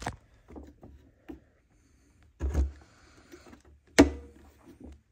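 Plastic clicks and knocks from a stiff headlight bulb being twisted and worked in its socket in the headlight housing: a knock about two and a half seconds in and a sharp click at about four seconds.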